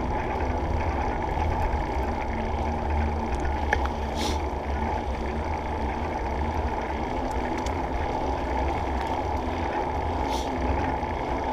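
Steady wind rumble on the microphone of a camera in an open-backed skeleton case while riding a bike, a deep low rush with no pitched tone. A couple of faint brief clicks are heard, about four seconds in and again near the end.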